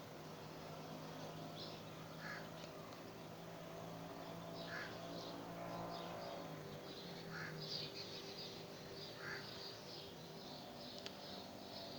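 Faint bird calls: short calls every couple of seconds, turning to denser chirping in the last few seconds, over a steady low hum.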